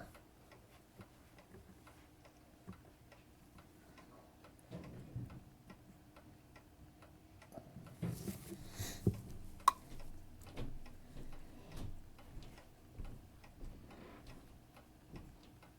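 Faint, steady ticking of a Seiko 7548 quartz watch movement while its rate is being regulated on a timegrapher. A cluster of small tool and handling clicks falls in the middle, the sharpest a little under ten seconds in.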